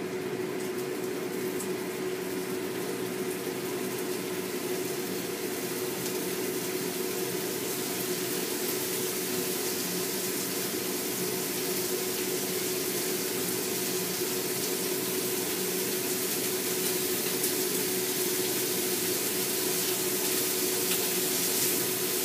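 Enoki-and-beef rolls sizzling in hot oil in a frying pan: a steady crackling hiss that grows slightly louder, with a steady hum underneath.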